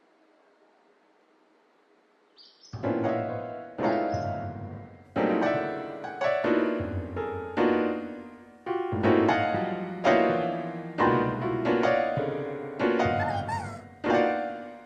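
Slow, sad piano music: full chords struck about once a second, each left to ring and fade. It starts after a near-silent opening of about two and a half seconds.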